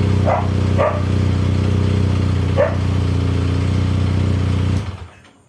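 Benelli TNT 249S single-cylinder motorcycle engine idling steadily through its exhaust, then switched off about five seconds in. A dog barks three times over it.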